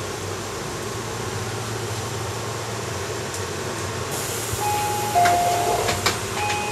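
Interior running noise of a Keihan electric commuter train: a steady low rumble, with a high hiss coming in about four seconds in. Near the end there are two short pairs of steady tones, each stepping down in pitch, and a few clicks.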